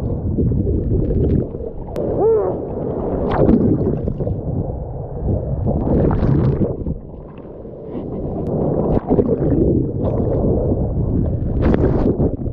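Seawater splashing and churning against a waterproof action camera as a swimmer kicks out through ocean surf, surging and easing irregularly, with a bubbling gurgle about two seconds in.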